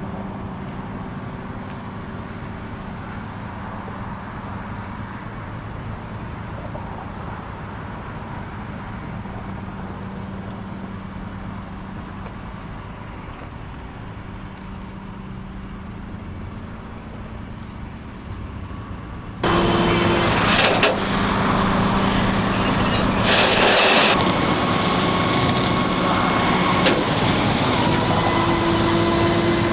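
Steady engine and traffic noise of idling vehicles at a freeway crash scene. About two-thirds of the way in, it cuts suddenly to louder running engines, with a short burst of hiss a few seconds later.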